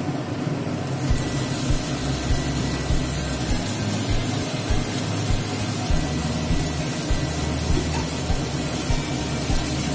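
Whole prawns frying in hot oil in a kadai: a steady sizzle that starts about a second in, with a low rumble underneath.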